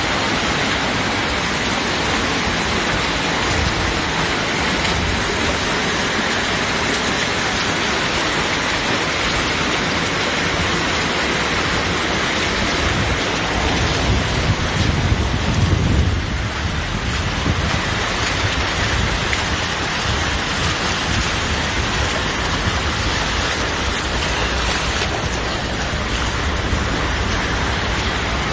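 Heavy rain pouring down in a storm, a steady dense hiss. About halfway through, a louder low rumble swells for a couple of seconds.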